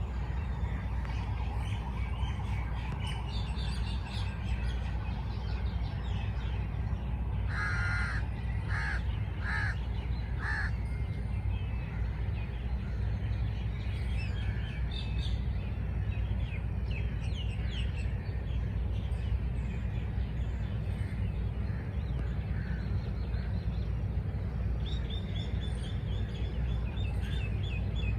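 A crow cawing four times in quick succession about a third of the way in, with smaller birds chirping here and there throughout, over a steady low rumble.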